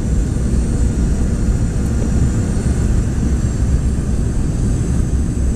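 Cabin noise inside a Boeing 717 airliner: a steady, loud rumble of airflow and its rear-mounted Rolls-Royce BR715 jet engines, with a faint high steady whine above it.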